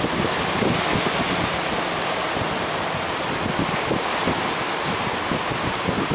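Big ocean waves surging and breaking in a steady wash of surf, with wind buffeting the microphone.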